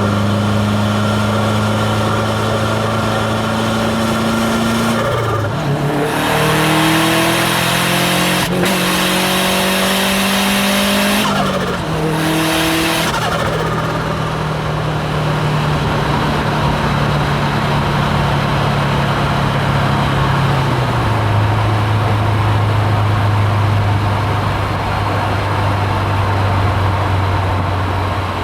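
Hybrid-turbo Subaru WRX STi's turbocharged flat-four cruising steadily, then pulling hard about five seconds in, its engine note rising under a loud rushing hiss from the turbo and external wastegate. A break about eleven seconds in, like a gear change, is followed by a second short burst of hiss, then a steady cruise that drops slightly in pitch about twenty seconds in.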